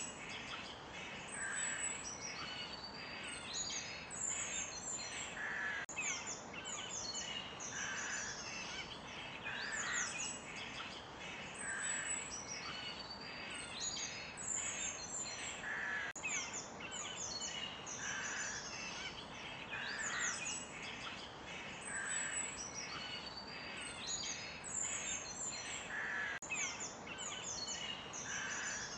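Forest birds chirping and singing together, many quick high chirps and sweeping notes overlapping, with a lower call repeating about every two seconds over a faint steady background hiss.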